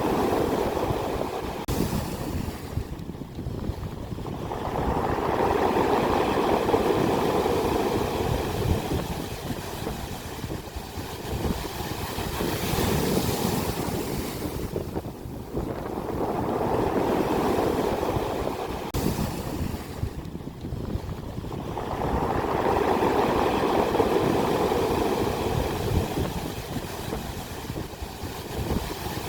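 Ocean surf breaking on the shore, swelling and fading in slow surges several seconds apart, with wind rumbling on the microphone.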